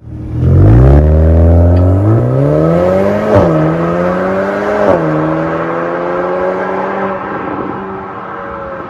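VW Golf R Mk8.5's EA888 evo4 turbocharged four-cylinder running through an MS-R valved aftermarket exhaust, accelerating hard: the pitch climbs, then drops sharply with a short crack at each of two upshifts, about three and a half and five seconds in. After the second shift it holds a steady tone and slowly fades.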